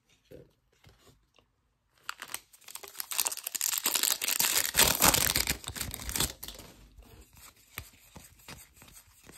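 Foil wrapper of a baseball card pack being torn open and crinkled, a loud crackling rip lasting about four seconds, then quieter rustling as the wrapper and cards are handled.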